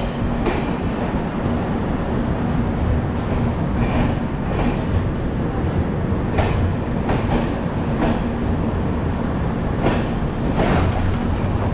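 Passenger train pulling out of a station at low speed: a steady rumble, with irregular sharp clicks as the wheels cross rail joints.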